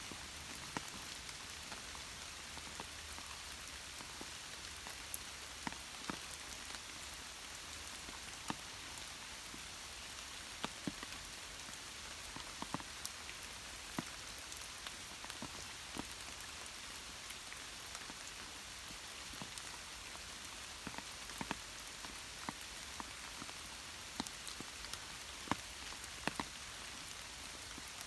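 Steady light rain hissing, with individual raindrops landing close by as irregular sharp taps.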